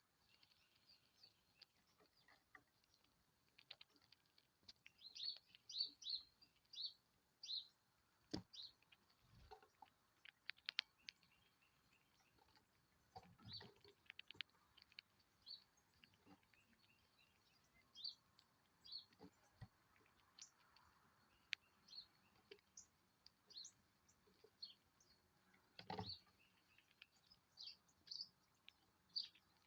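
Small birds chirping faintly: short, high chirps repeated in runs all through, with a few sharp clicks, the loudest near the end.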